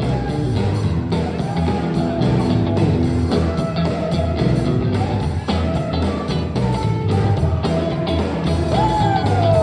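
Live sacred steel gospel band playing: a steel guitar slides and bends between notes over bass and drums with a steady beat.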